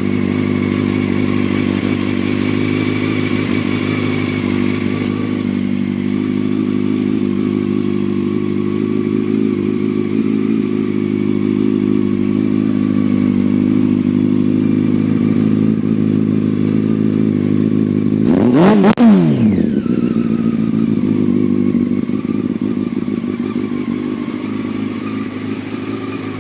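Honda CBR F2's inline-four engine idling steadily through an Arrow aftermarket exhaust, given one quick throttle blip about three quarters of the way through that rises and falls back to idle.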